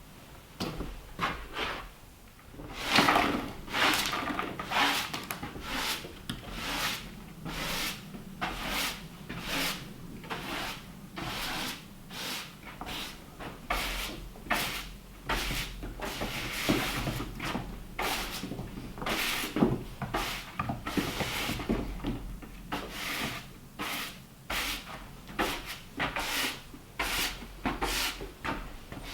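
A hand tool worked back and forth on wood, a scraping, rasping stroke about once or twice a second, starting about two seconds in.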